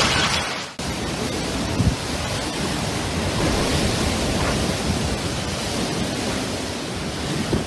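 Steady rushing water noise with a low rumble underneath. It starts with an abrupt cut under a second in, replacing a louder hiss.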